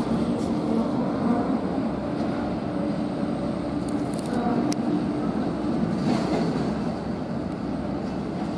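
Electric train running, heard from on board: a steady rumble of wheels on the track with a steady motor hum.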